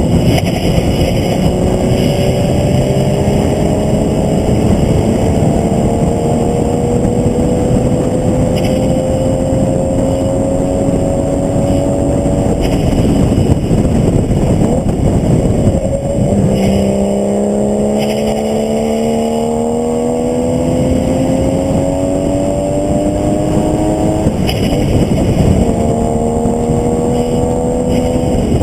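Onboard sound of a vehicle lapping a race track: the engine pulls under throttle with its pitch climbing slowly for about twelve seconds, then drops away. It climbs again for about eight seconds, drops again near the end and starts to climb once more, all under heavy wind and road noise.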